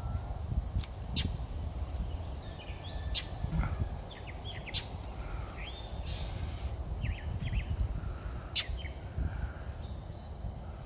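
A bird scolding a cat near its nest: about five sharp, clipped call notes a second or more apart, among softer short chirps, over a low steady rumble.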